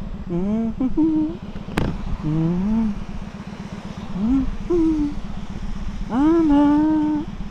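Kawasaki motorcycle engine running with a steady low pulsing while the rider hums a sliding tune over it, the longest note held near the end. A sharp click about two seconds in.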